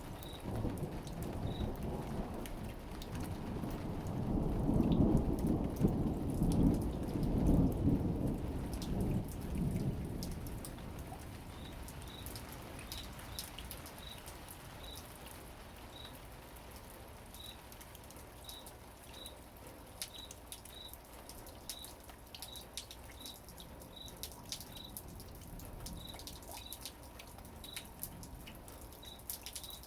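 Thunder rumbling, swelling for several seconds and dying away, over steady rain with drops ticking and dripping. A faint high peep repeats now and then in the second half.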